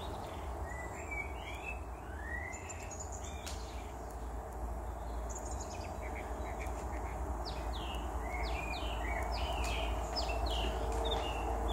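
Small birds chirping: many short chirps, thicker in the second half, over a steady low rumble.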